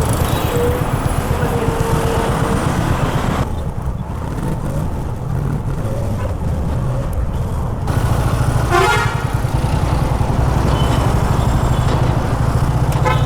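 Honda H'ness CB350's single-cylinder engine running through city traffic. It eases off for about four seconds in the middle, then pulls again. Vehicle horns sound briefly, once about two-thirds in and again near the end.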